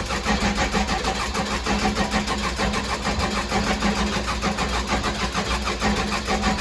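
Case 580 Super L backhoe's diesel engine cranking on the starter motor with a steady, even pulse but not catching, the fuel system just re-primed after it ran dry. The cranking doesn't sound healthy.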